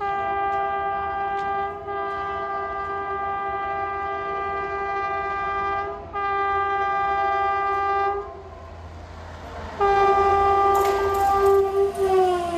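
Indian Railways electric locomotive's horn sounded in four long blasts, with short breaks between the first three and a longer gap before the last. The last blast drops in pitch near the end as the train rushes past.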